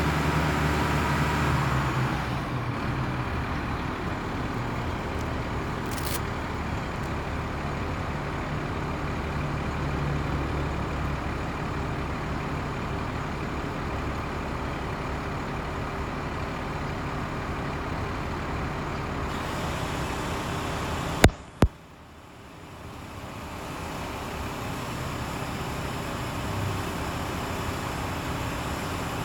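Truck engine running steadily, with two sharp clicks about 21 seconds in, after which the sound briefly drops quieter and then comes back up.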